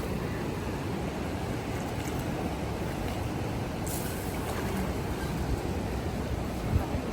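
Steady rushing noise of the Narayani River in flood, a continuous low rumble of fast-moving water.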